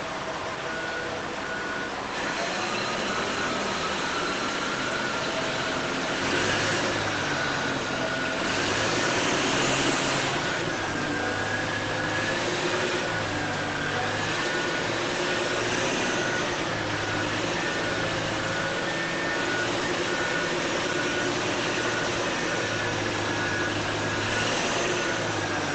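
Radio-controlled model trucks and heavy equipment running, their electric motors and gears whining and wavering in pitch over a steady hiss. In the second half a regular beep repeats like a reversing alarm.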